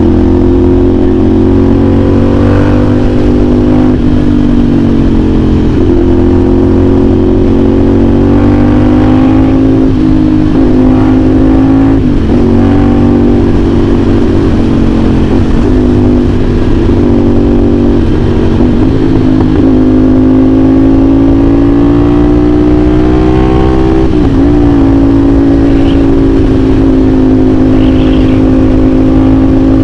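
CFMOTO 450SR S parallel-twin engine, fitted with an AR aftermarket exhaust, running at steady riding revs. The revs dip briefly several times.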